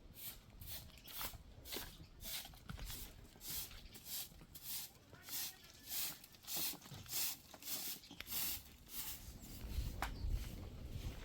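Broom sweeping with short, even swishing strokes, about two a second. A low rumble comes in near the end.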